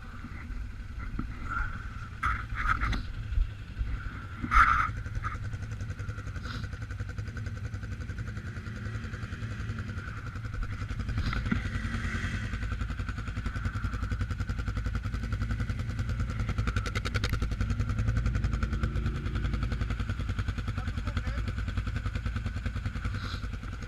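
Suzuki KingQuad 750 AXi ATV's single-cylinder engine running under load off-road, getting louder about halfway through. Several knocks and clatters come in the first few seconds.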